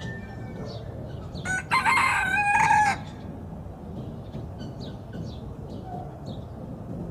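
A rooster crowing once, starting about one and a half seconds in and lasting about a second and a half, over a steady low background rumble.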